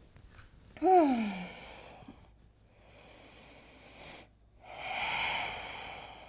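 A woman breathing audibly: a sigh with a falling note about a second in, then two long breaths, the second louder.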